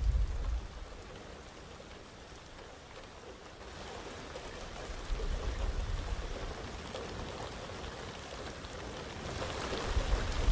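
Heavy rain falling steadily on surfaces, getting heavier about four seconds in. A low thunder rumble dies away at the start, and another low rumble swells near the end.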